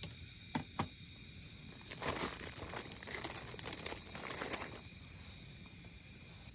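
Two quick clicks, then about three seconds of crinkling and rustling as packaging is handled.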